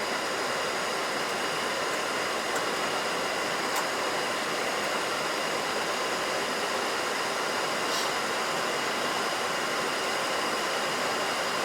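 Steady rushing flight-deck noise of a Boeing 737NG on final approach: airflow and air-conditioning hiss with several faint high steady tones, and a few faint ticks.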